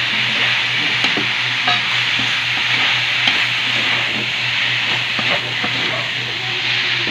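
Chopped chicken-and-pork sisig sizzling as it is reheated in a hot wok, stirred by a metal spatula that scrapes and taps against the pan now and then. A steady low hum runs underneath.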